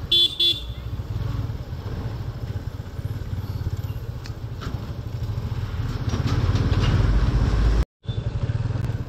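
Yamaha FZ25 motorcycle engine running under way, heard from the rider's position, growing louder from about six seconds in. It cuts out briefly near the end. Two short beeps of a vehicle horn sound right at the start.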